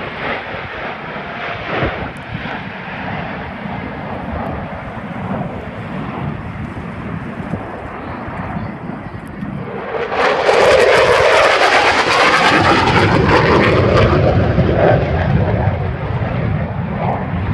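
Airplanes flying over, their engines a steady drone at first. About ten seconds in, a much louder roar of a low pass comes in, its pitch sweeping down as it goes by, then it slowly fades.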